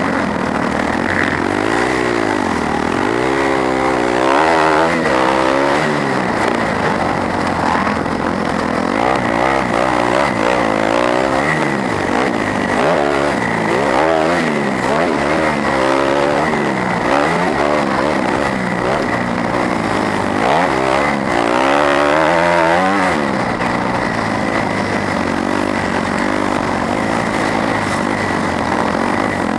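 250cc four-stroke motocross bike engine, heard onboard, revving up and dropping back again and again as the rider accelerates and rolls off around the track.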